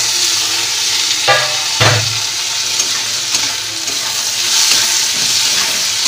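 Chopped tomatoes and onions sizzling in hot mustard oil in a steel kadai, stirred with a spatula, a steady loud hiss. Two metallic knocks of the spatula on the pan about a second in, half a second apart.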